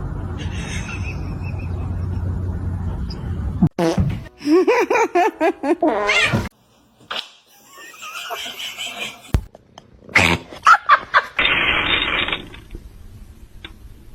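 A cat meowing in drawn-out, wavering calls, in between a low steady rumble at the start, a few sharp knocks, and a short hiss-like noise near the end.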